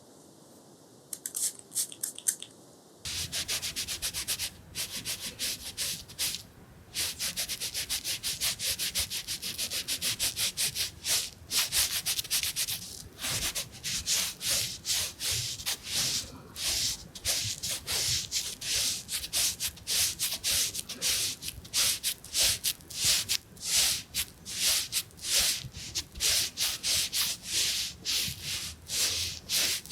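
Close-up rubbing and wiping strokes right on the microphone, in a face-cleaning ASMR roleplay. A few light strokes come after a second of quiet, then a fast run of scrubbing strokes follows one after another to the end.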